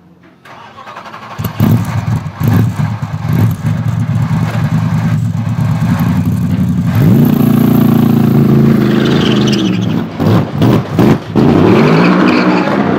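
Mercedes SLS AMG GT3 race car's V8 engine at full throttle, swelling from faint to loud over the first second or two, then revs climbing about seven seconds in. Several quick cuts and blips in the engine note around ten to eleven seconds in, before it pulls hard again.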